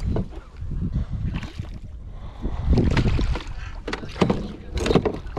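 Irregular thumps and knocks against a kayak as a hooked fish is fought from it, with a few sharper knocks about four and five seconds in.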